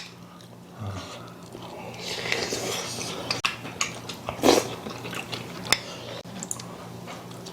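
A person chewing a mouthful of stew and rice, with soft wet mouth sounds and a few sharp clicks, over a faint steady hum.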